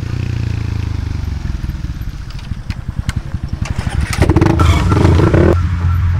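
Motorcycle engine idling close by. Its firing turns into slower, uneven pulses about two seconds in. A louder, rougher stretch of about a second and a half follows near four seconds in, then it settles back to a steady idle.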